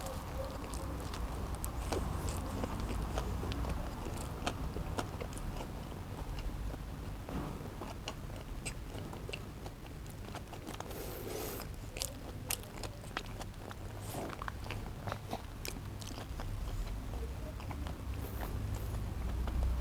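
A person chewing a cheeseburger close to the microphone, with many small wet clicks and crunches as the mouth works.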